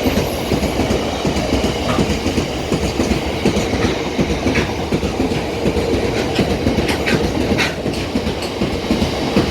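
Freight train hauled by Class 59 locomotive 59103, with Hanson wagons, passing at speed. The wagon wheels make a steady, dense clatter over the rail joints, with a few brief high squeaks.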